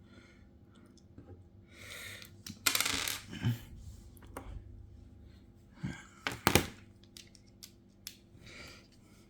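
Small metal tools and phone parts clicking and clinking against a work surface during iPhone disassembly, with a short noisy rush about three seconds in and a few sharp knocks a little past halfway.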